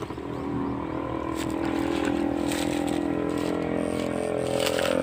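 Electrofishing rig humming steadily, getting slightly louder, with a few sharp clicks.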